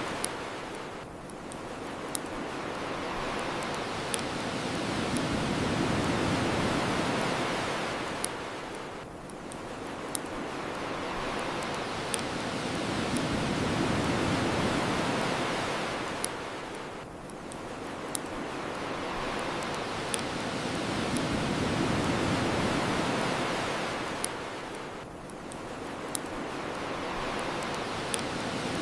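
Ocean waves washing onto a shore, swelling and ebbing in slow surges about every eight seconds, with the sharp pops of a crackling wood bonfire every couple of seconds.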